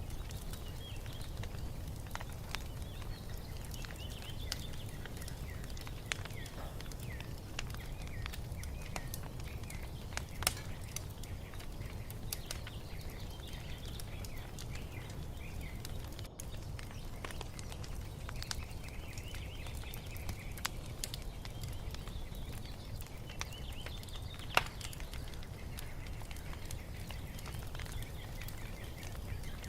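Wood fire crackling with scattered pops over a low steady rumble, the sharpest pops about ten seconds in and about twenty-five seconds in. Small birds chirp throughout.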